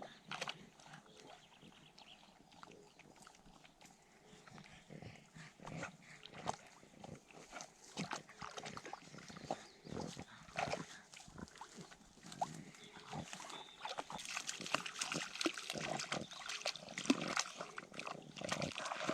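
A toad croaking, faintly, amid irregular crackles and rustles that grow louder near the end.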